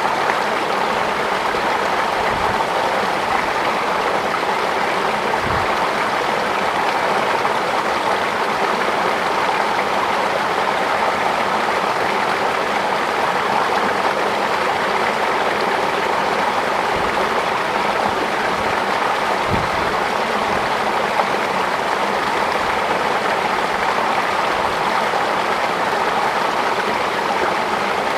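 Steady rush of flowing water, an even unbroken sound, with a few faint low thuds underneath.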